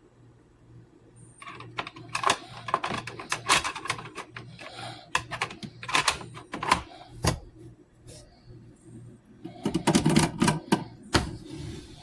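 Clatter of handling: a fast run of clicks and knocks for several seconds, a pause, then another dense burst near the end, over a steady low hum.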